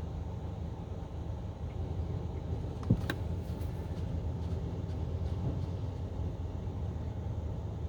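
Steady low rumble inside a car standing in a D&S 5000 automatic car wash bay, heard between spray passes, with one sharp click about three seconds in.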